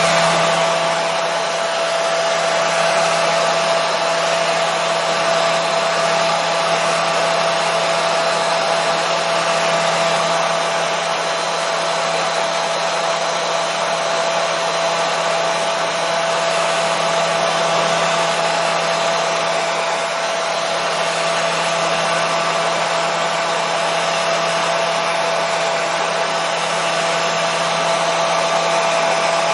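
Hair dryer running steadily: an even rushing air noise with a constant motor whine on top, unchanging throughout.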